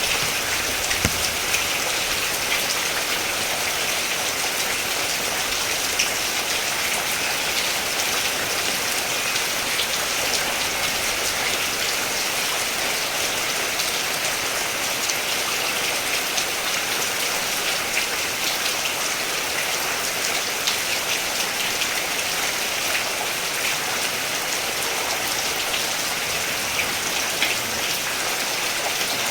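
Steady rain falling, a dense even hiss with many individual drops pattering on surfaces.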